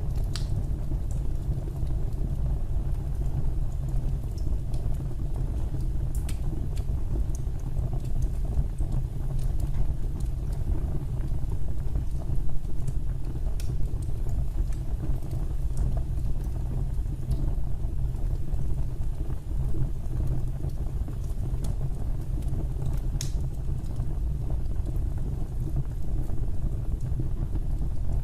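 Fire burning in a fireplace: a steady low rumble with a few sharp crackles and pops now and then.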